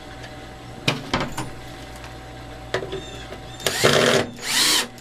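A few knocks of wood being handled, then two short bursts of a cordless drill/driver running, each under a second, as deck screws are driven into pine.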